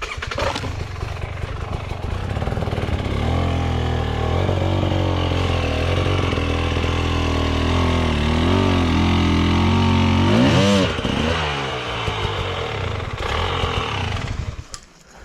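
Enduro motorcycle engine running hard at steady high revs, with two quick rev swings about two-thirds of the way in, then dropping lower and cutting out just before the end. The rear wheel is spinning and digging into the mud rather than climbing.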